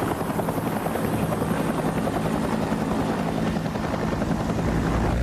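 Bell UH-1 Huey helicopter flying, its rotor beating rapidly over the engine noise. Near the end a deeper steady drone takes over.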